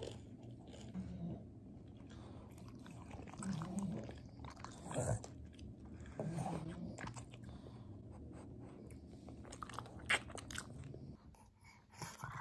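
Quiet crunchy chewing and mouth noises close to the microphone, with scattered small clicks.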